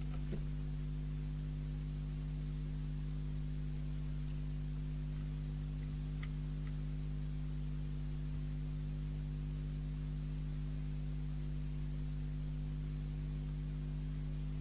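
Steady electrical mains hum, one unchanging low buzzing tone with its overtones, and two or three faint clicks partway through.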